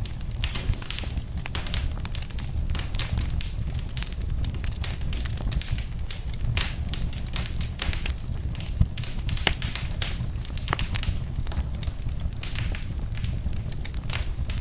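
Wood fire burning in a fireplace, crackling with dense, irregular sharp pops over a steady low rumble; one pop about nine seconds in stands out.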